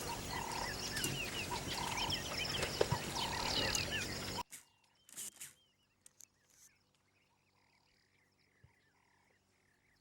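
Outdoor natural ambience: a dense chorus of many short, repeated chirping animal calls over a steady hiss. About four and a half seconds in it cuts off abruptly, leaving only a faint chorus of the same chirping.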